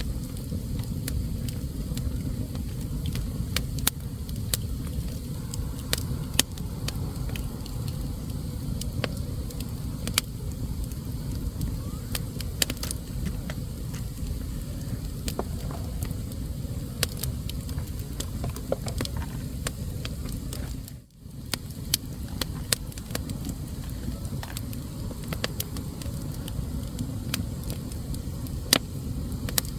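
Wood fire burning in a fireplace: a steady low rumble with frequent sharp crackles and pops from the burning logs. The sound dips out for a moment about two-thirds of the way through.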